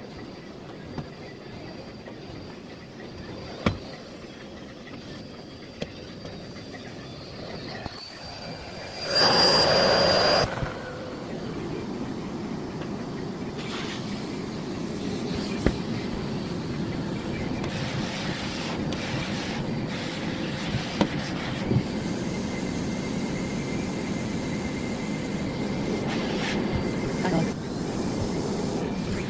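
Miele Blizzard CX1 bagless cylinder vacuum cleaner running steadily with a faint whine. About nine seconds in there is a loud rushing burst lasting a second or so, and there are a few sharp clicks and knocks as the floorhead is worked.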